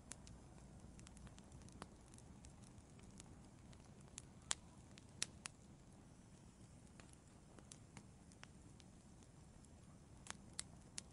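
Wood fire in an outdoor fireplace crackling softly: scattered sharp pops and snaps over a faint low hiss. The loudest pops come about four and a half and five seconds in, with a small cluster near the end.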